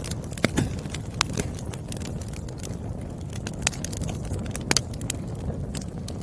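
Burning firewood crackling, with irregular sharp pops over a low steady rumble of the flames; louder pops come about half a second in and again near 4.7 s.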